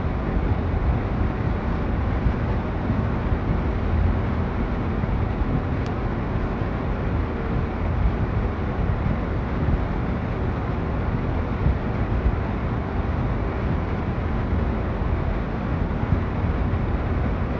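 Wind buffeting the microphone in a snowstorm: a steady low rumble with no let-up, and a single faint click about six seconds in.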